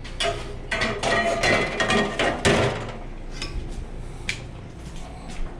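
Kitchen clatter of dishes and utensils being handled: a dense run of knocks and clinks for the first few seconds, then a few scattered taps.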